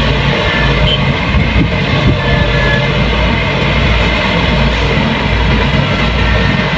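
Kubota rice combine harvester running steadily, its diesel engine giving a low drone under a dense, even mechanical noise.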